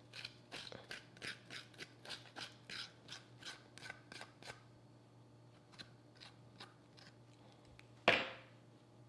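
Knife chopping vegetables on a cutting board in quick, even strokes, about three a second, slowing to a few lighter cuts about halfway through. Near the end comes one much louder knock.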